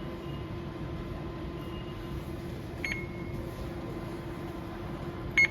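Ticket vending machine touchscreen beeping at button presses: a faint short beep about three seconds in and a louder one near the end. A steady machine hum runs underneath.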